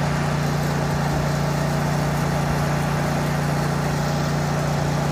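Steady truck engine idling sound, an even low rumble with no change in speed.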